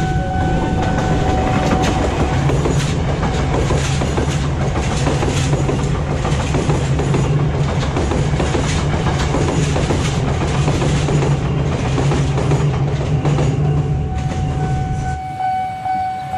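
KRL electric commuter train passing on the near track, its wheels clacking over the rail joints over a steady low running hum; the noise drops away about fifteen seconds in. The level crossing's electronic Nippon Signal warning alarm sounds under it at the start and again near the end.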